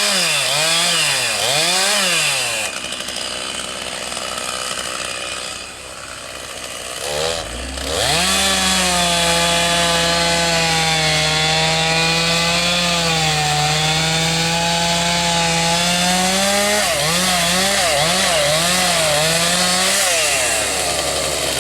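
Chainsaw revved in quick throttle blips, then easing off for a few seconds. It then runs at a steady high speed for about nine seconds, its pitch sagging slightly midway, and is blipped up and down again near the end. A lower steady hum comes in about seven seconds in.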